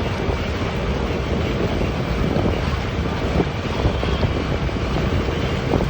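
Amphibious duck boat's engine running steadily as it cruises through the water, with wind buffeting the microphone.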